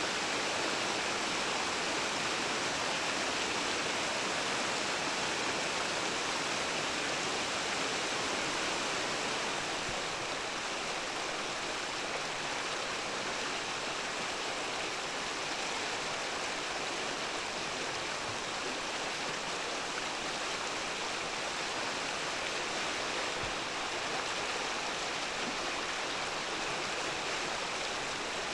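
Mountain stream rushing over rocks: a steady, even flow of water with a slight dip in level about nine seconds in.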